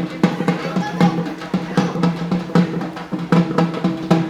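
Music of rapid, regular drumbeats over a steady low tone.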